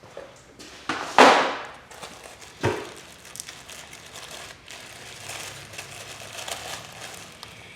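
Handling and rummaging among workshop tools and parts: a loud clatter about a second in, a sharp knock near three seconds, then light rustling and crinkling.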